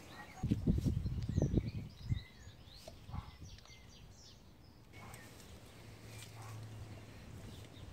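Birds chirping in short calls for the first five seconds or so, over a few low thumps and rumbles in the first two seconds and a faint low hum near the end.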